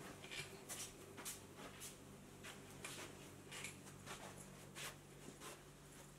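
Faint footsteps indoors, soft irregular steps about two a second as someone walks carrying mugs, over a low steady hum.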